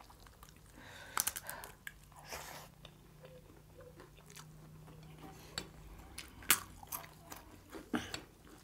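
Close-miked eating: people chewing and biting, with several short, crisp crunches about a second in and again between about six and eight seconds in.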